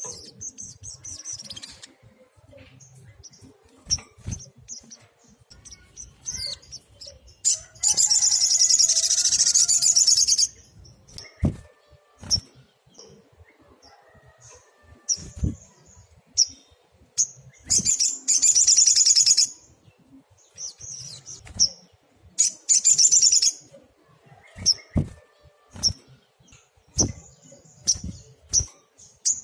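Olive-backed sunbird singing: several long bursts of rapid, high-pitched trilled song with scattered single chirps between them, and a few soft knocks.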